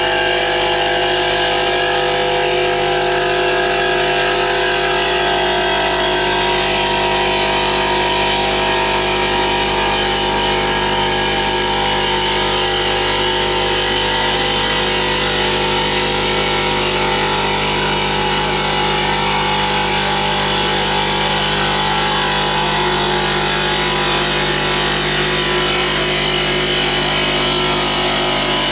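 CNC stone polishing machine running steadily: a constant motor whine of several fixed tones over the rubbing of the polishing head on stone.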